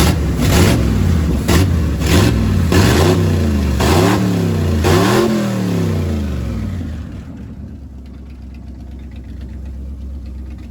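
Chevrolet small-block V8, fed by a new Holley carburetor and breathing through a freshly finished exhaust, revved in a series of quick throttle blips about once a second. It drops back to a steady idle about seven seconds in.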